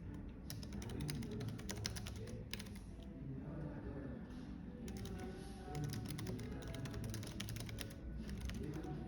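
Typing on a computer keyboard in quick runs of key clicks, pausing briefly in the middle, over a low café murmur.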